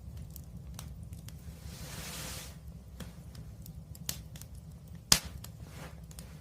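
Wood fire burning with a low rumble, scattered crackles and a short hiss about two seconds in, then one loud sharp pop a little after five seconds.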